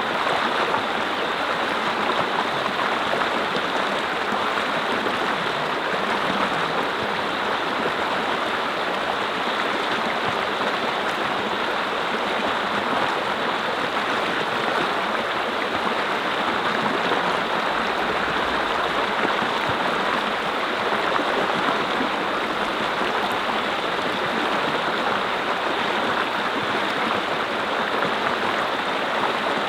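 Mountain stream: water running and babbling over rocks in a steady rush, with no change in level.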